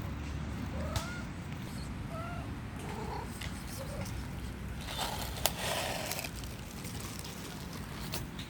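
Hungry cats meowing for food: about five short, rising-and-falling meows in the first four seconds. Then a rustling noise comes in, with a sharp click about five and a half seconds in.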